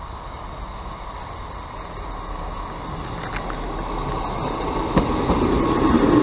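A First Great Western Class 158 diesel multiple unit approaching and passing close by. Its diesel engine hum and wheel noise grow steadily louder, with a single sharp click about five seconds in.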